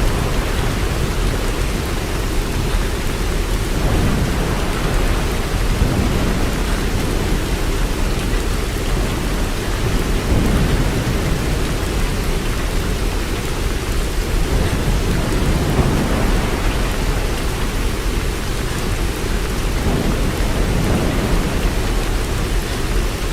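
Steady heavy rain: an even hiss with a deep low rumble underneath that swells now and then.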